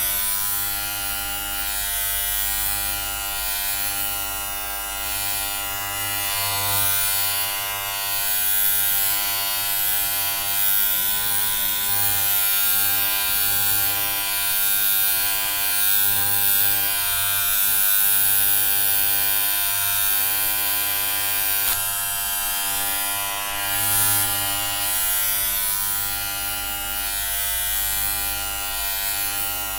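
Electric hair clippers buzzing continuously, a steady electric hum with a bright hiss over it that swells and eases a little from moment to moment.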